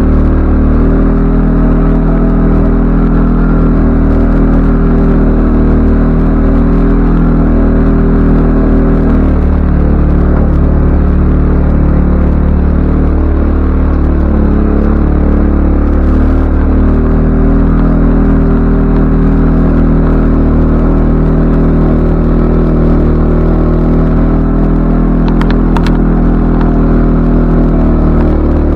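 CFMoto ATV engine running at a fairly steady speed while riding, with a few light clicks near the end.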